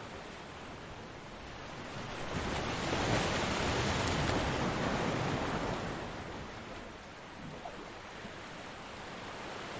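Ocean surf: a wave builds, breaks with a wash across the beach peaking a few seconds in, and recedes, leaving a steady hiss of surf.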